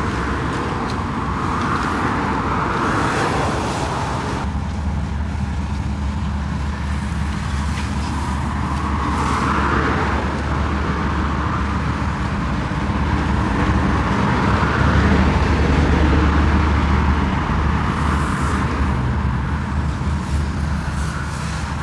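A motor vehicle's steady low hum under a hissing noise that swells and fades about every six seconds.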